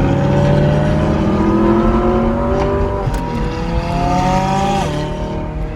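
Car engine pulling under acceleration, its revs climbing steadily, then dropping sharply about five seconds in.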